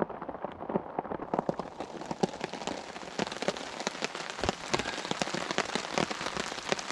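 Steady rain falling on a tarp overhead: a dense, irregular run of sharp drop hits.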